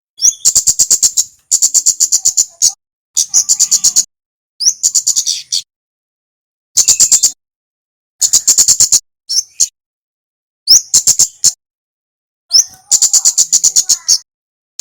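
Kemade songbird singing a male's full song: phrase after phrase of rapid, high, chattering repeated notes, each burst lasting about a second, with short pauses between them.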